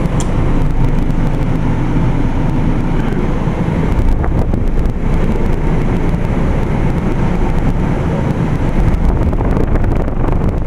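Carrier Infinity GreenSpeed 25VNA inverter heat pump running steadily in cooling mode, a low mechanical rumble, which the owner thinks is spooling down.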